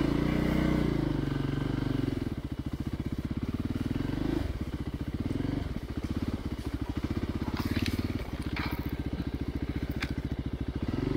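Single-cylinder dual-sport motorcycle engine ridden slowly off-road, revs rising and falling with the throttle and dropping to a low, pulsing chug in between. A few short sharp clicks come in the second half.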